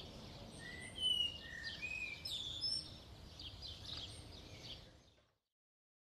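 Small birds chirping over a faint outdoor hiss, with a cluster of short, high whistled notes between one and three seconds in. The sound fades out about five seconds in.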